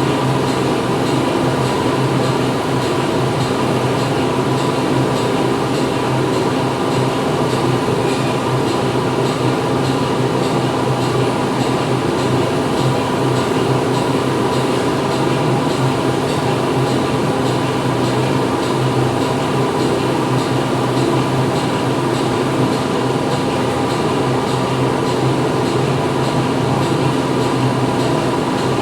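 Factory floor ambience: machinery running with a steady hum and dense mechanical noise, with a faint regular ticking above it.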